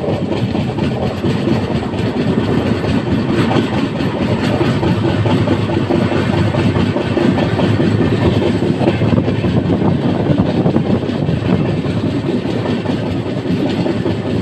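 Moving train: a steady rumble and rattle of wheels running over the rails.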